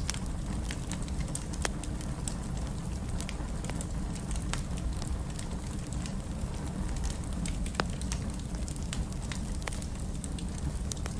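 Fireplace fire burning: a steady low rumble of flames with irregular sharp crackles and pops scattered throughout.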